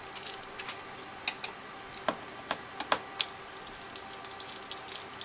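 Irregular light clicks and taps from hands working on a plastic graphing calculator, about a dozen in all.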